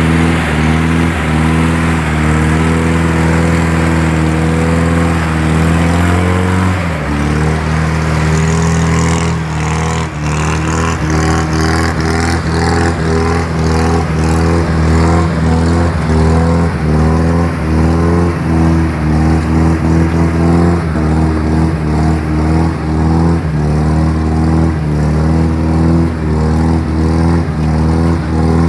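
GAZ-66 truck engine running hard under load, its note shifting in pitch about seven seconds in and then pulsing in a steady surging rhythm.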